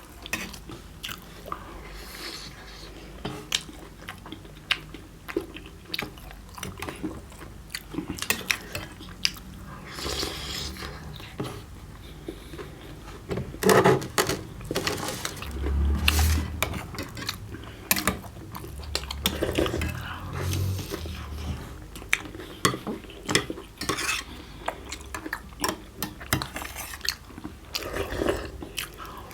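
Spoons and plates clinking and scraping during a meal, a string of short irregular clicks with a louder clatter about 14 seconds in.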